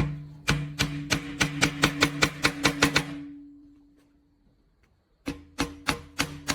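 A hammer striking metal in quick, even blows, about four a second, with the struck metal ringing on and dying away for a second or so after the blows stop. A second run of blows starts about five seconds in.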